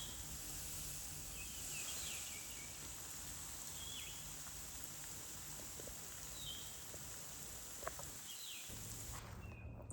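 Steady hiss of a garden hose spraying water, with short, high bird chirps about every second or two. The hiss cuts off suddenly near the end.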